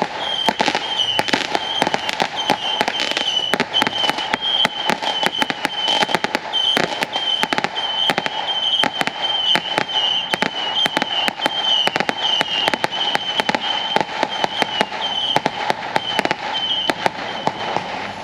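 Consumer fireworks crackling: a rapid, uneven string of sharp pops and cracks, many a second, over a steady high whistle that wavers a little in pitch. It all fades near the end.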